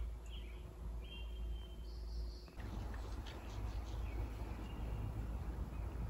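Small birds chirping, with short high whistled notes, over a steady low outdoor rumble. About halfway through, the background changes abruptly, and a few faint clicks and whistles follow.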